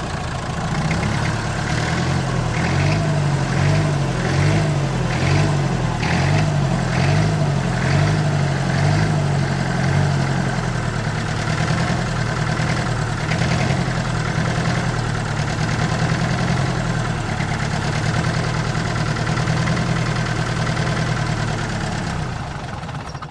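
Perkins 4.203 four-cylinder diesel engine of a 1962 Lansing Bagnall forklift running on its own, revving itself up. Its revs surge up and down repeatedly for the first ten seconds or so, then settle steadier; the owners put the surging down to a lot of air getting into the fuel.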